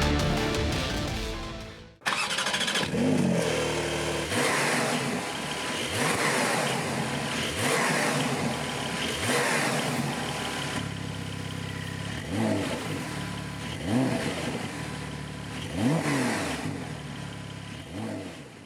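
Porsche 911 Carrera 4S 3.0-litre twin-turbo flat-six being revved repeatedly: about eight throttle blips, each rising and falling back, heard through the exhaust. Background music plays for the first two seconds, before the engine comes in.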